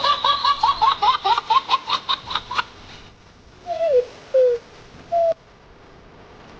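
A rapid string of about a dozen short, high-pitched calls, roughly five a second, then three separate lower calls that fall in pitch.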